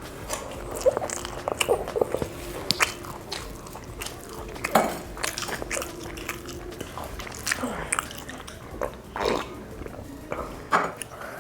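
A person biting and chewing food close to the microphone, with irregular short wet clicks and smacks.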